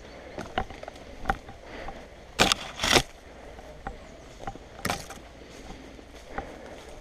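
Rustling and crunching of someone moving through brush and leaf litter, with scattered small clicks and a few louder scraping brushes, two close together near the middle and one more a couple of seconds later.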